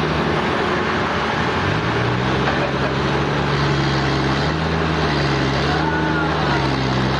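Sawmill machinery running steadily with a motor-like hum whose pitch shifts about two seconds in, over a dense grinding noise.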